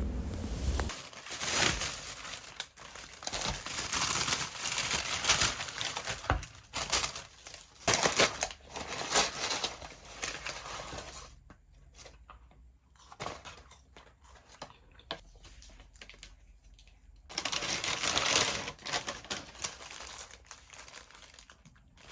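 Irregular crinkling and rustling of something being handled, in bursts, with a quieter stretch in the middle and another burst a few seconds before the end.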